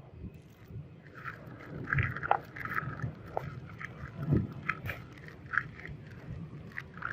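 A knife cutting and scraping through a bar of soft soap, in irregular short strokes with a few sharp clicks.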